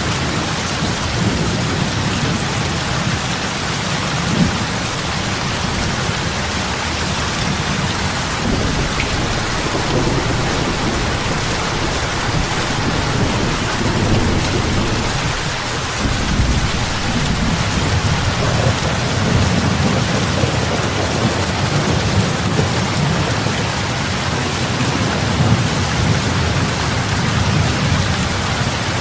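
Steady heavy rain falling on open water, an even hiss of drops with a low rumble underneath that swells and fades.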